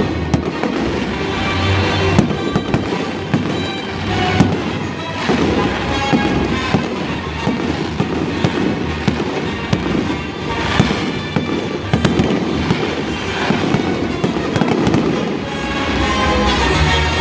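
Fireworks exploding in a rapid, continuous barrage of bangs and crackles, with music playing underneath.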